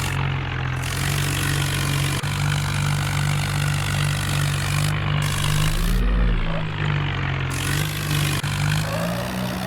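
Massey Ferguson tractor engine running steadily; its note shifts briefly about six seconds in and rises slightly near the end.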